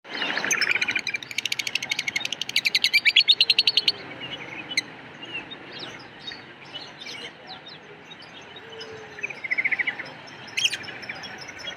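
Lovebirds chirping. A loud, fast run of rapidly repeated chirps fills the first few seconds, then softer scattered chirps follow, with another short rapid run near the end.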